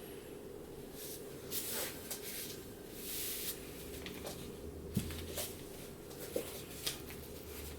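Brush strokes swishing across paper a few times, then several light clicks, over a steady faint hum.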